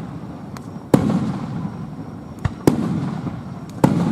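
Aerial firework shells bursting: four sharp bangs about a second apart, three of them loud, each trailing off in a rolling rumble, with a few faint crackles between.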